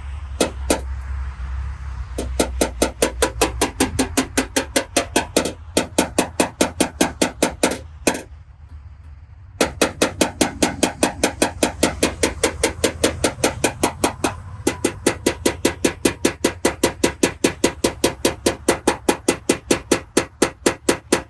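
Paintless dent repair hammer tapping down the crowns around a dent in a car body panel: quick, even light taps, about four to five a second, with a short break about halfway through.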